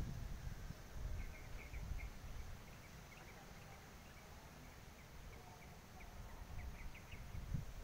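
Faint outdoor ambience: small birds chirping in short scattered notes over a low, uneven rumble.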